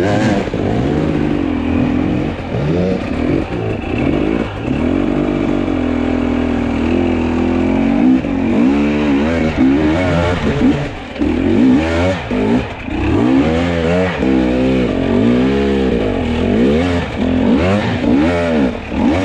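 Fuel-injected two-stroke enduro motorcycle engine revving up and down under throttle while riding off-road. It holds fairly steady for a few seconds, then rises and falls quickly over and over from about halfway through.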